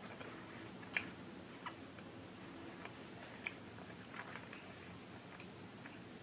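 Faint chewing of sushi with the mouth closed: soft, scattered wet clicks and smacks, with one sharper click about a second in.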